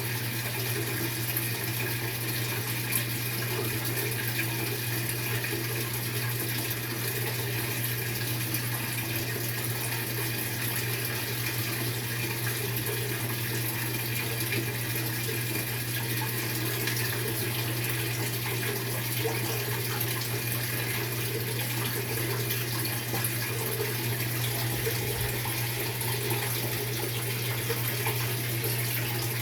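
Maytag top-load washing machine running water during its tub-clean cycle: a steady rush of water with a constant low hum underneath, unchanging throughout.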